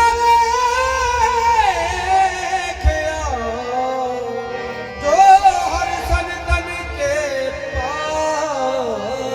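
Qawwali music: a singer's wordless melismatic runs, the voice gliding up and down in pitch over steady held accompanying notes, with occasional low drum strokes.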